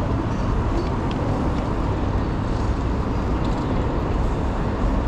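Steady road traffic noise picked up by a bicycle-mounted camera on the move, with a constant low rumble.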